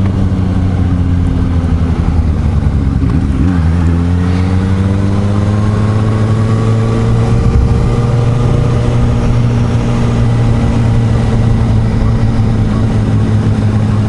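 Suzuki GSR750 inline-four motorcycle engine running steadily while riding, with wind rushing over it. A second engine's pitch dips about three seconds in and then climbs slowly and levels off.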